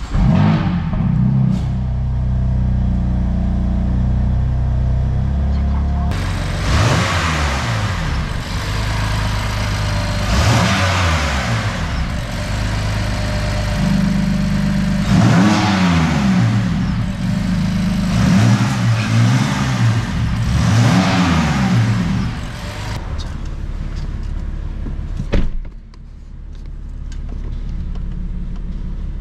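BMW F82 M4's S55 twin-turbo straight-six starting up and idling high, then revved repeatedly from about six seconds in, each rev rising and falling with a loud rushing noise, as a check that the newly fitted Eventuri carbon intake and charge pipe hold under load. It settles back to idle near the end, with a single sharp knock shortly before it.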